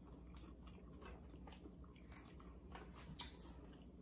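Faint chewing and biting, with a few soft mouth clicks scattered through, as people eat fried catfish by hand.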